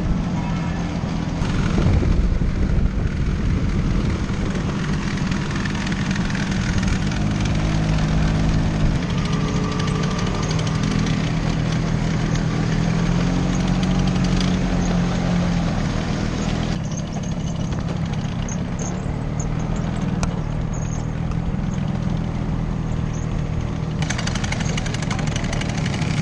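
Small scooter engine running while riding, its pitch shifting with the throttle, with wind noise.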